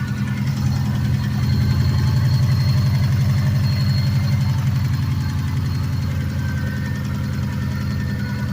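Subaru WRX STI flat-four engine idling with a steady, fast rattle. The owner fears the rattle means serious engine damage from having been driven hard while low on oil and coolant.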